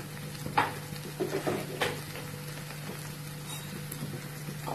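Tomato and onion masala sizzling in a frying pan, with a few light knocks of a wooden spatula against the pan in the first two seconds.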